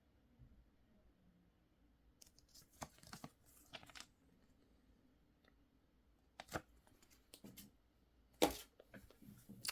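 Paper rustling as the pages of a small printed catalogue are handled and turned: several short, faint scrapes and crinkles, the loudest near the end.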